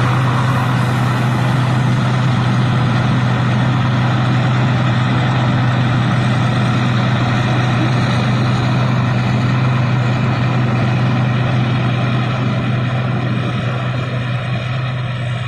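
Rice combine harvester's engine running steadily with a constant low hum, easing slightly near the end.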